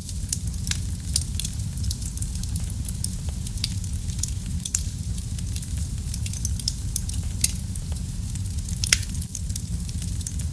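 Fire crackling in a fireplace: a steady low rumble of flames under frequent sharp pops and snaps, with two louder pops in the later part.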